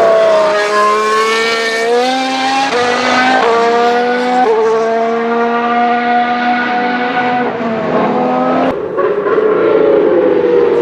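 2019 Formula 1 car's 1.6-litre turbocharged hybrid V6 engine running at high revs on track, its pitch jumping up abruptly three times early on and then holding steady. A little before the end the sound breaks off suddenly and another engine note takes over, sweeping in pitch.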